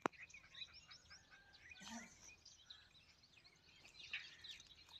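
Faint birdsong: many short chirps and quick whistled notes from several small birds, busier about two seconds in and again near the end.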